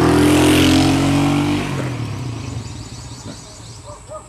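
A motor vehicle engine passing close by, its pitch rising slightly, then fading away over the first two seconds. A bird chirps faintly near the end.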